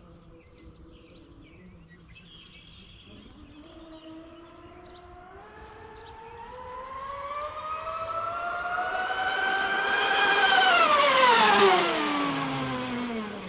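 Twin-motor electric RC catamaran (Oxidean Marine Animal Twin) making a high-speed pass: its high-pitched motor whine grows louder and rises in pitch as it approaches, is loudest about eleven seconds in, then drops steeply in pitch and fades as it goes by and away.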